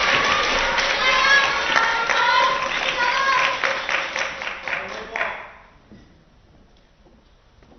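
Arena crowd cheering and clapping, with many voices calling out together; it dies away about five and a half seconds in, leaving the hall nearly quiet.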